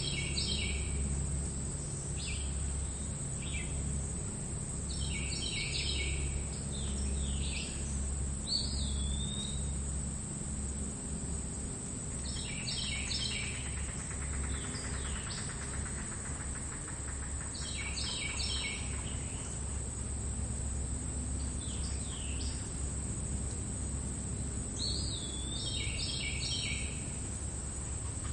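Meadow ambience: a songbird sings short, fast phrases about every five to six seconds over a steady high-pitched trill of crickets, with a low steady rumble beneath.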